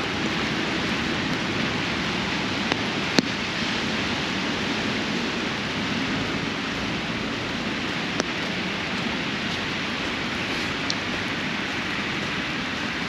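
Steady rain pattering on an umbrella, with a few sharper taps of single drops, the clearest about three seconds in and again about eight seconds in.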